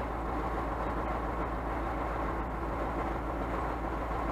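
A Scania truck's diesel engine running steadily, a constant low drone with even noise over it.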